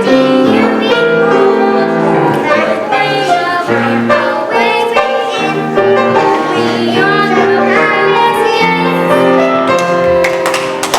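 Young voices singing a song from a stage musical, with piano accompaniment and sustained, melodic sung notes.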